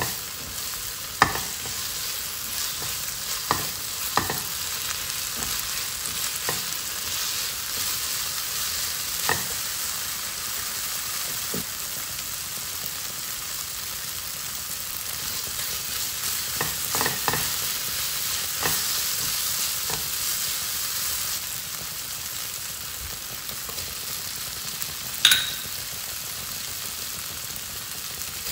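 Chopped onions and carrots with spices sizzling in oil in a nonstick frying pan while a silicone spatula stirs them, with short scrapes and taps against the pan now and then. A single sharp clink stands out near the end.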